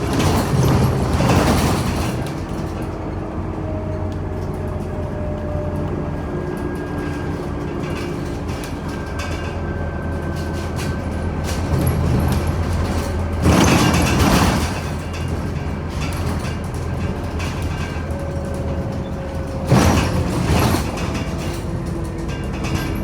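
Scania OmniCity city bus heard from inside, its engine running with a steady low drone. Three louder rushes of noise come near the start, about halfway through and about two-thirds of the way in.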